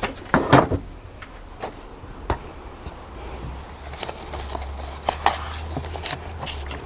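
Irregular knocks, clicks and rustles of things being handled and moved, loudest in a cluster about half a second in, with a low wind rumble on the microphone from about four seconds in.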